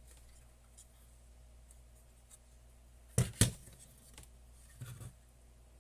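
Two sharp clicks about a quarter second apart, then a few fainter knocks, from parts of a vintage electronic instrument being handled during disassembly, over a steady low hum.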